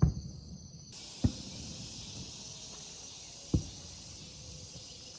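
Steady high-pitched buzzing of insects calling in the vegetation. The buzz shifts to a broader hiss about a second in. Three dull thumps sound over it: at the start, just after a second, and about three and a half seconds in.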